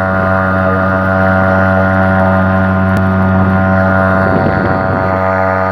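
HDX 2.6 hp outboard motor running steadily at a constant pitch.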